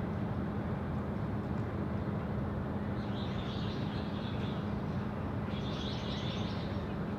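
Steady wind rumble with a constant low hum, and two short spells of high bird chirping, about three seconds in and again near six seconds.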